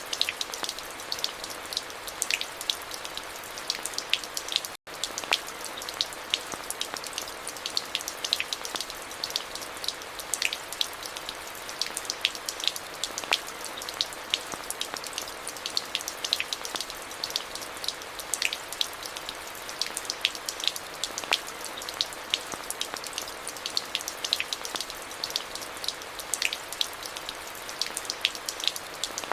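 Steady rain falling, with many sharp individual drop impacts ticking over the hiss. The sound cuts out for an instant about five seconds in.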